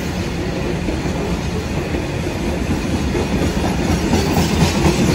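A train rolling past on the rails, its wheels rumbling and clacking in a steady, loud rush; no horn sounds.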